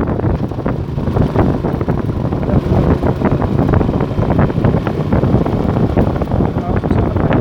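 Wind buffeting the microphone on a moving Motorstar Star X 125 motorcycle, with the bike's engine running beneath it and occasional knocks from the road.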